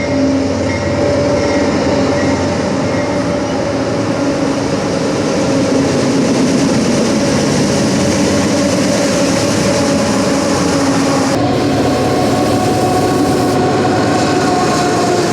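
Freight train running past on the rails, a steady loud din of wheels and cars with some clickety-clack. A locomotive horn blast dies away just as it begins, and a steady high tone joins about eleven seconds in.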